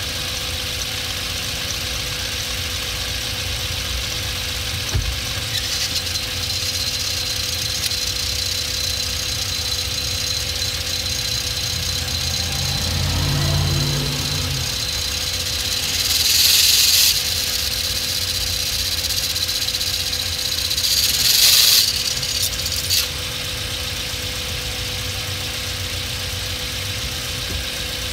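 2006 Hyundai Elantra engine running while the clutch is let out in first gear, with a high steady squeal from the clutch that comes in about six seconds in and stops a few seconds before the end, swelling louder twice; the engine revs briefly around the middle. The squeal comes from a clutch whose damper spring has failed and separated from the clutch disc.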